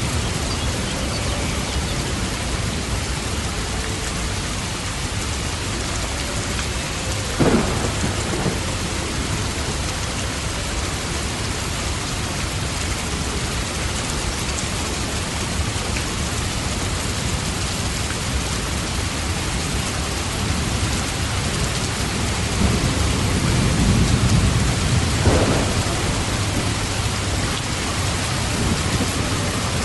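Steady rain falling, with thunder: a sharp crack about a quarter of the way in, then a longer low rumble with another crack in the last third.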